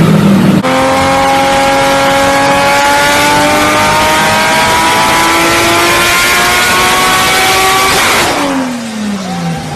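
A high-horsepower turbocharged car engine at full throttle, its note climbing steadily for about seven seconds over a loud rush of air. Near the end the engine note drops away sharply, falling in pitch.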